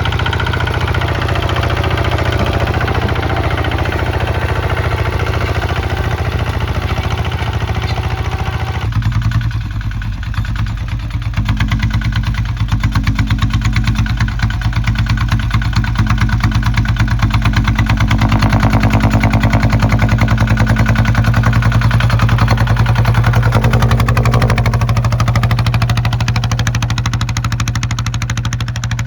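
Kubota ZT155 single-cylinder diesel engine running steadily with a fast, even beat. Its sound changes abruptly about nine seconds in, then it runs slightly louder.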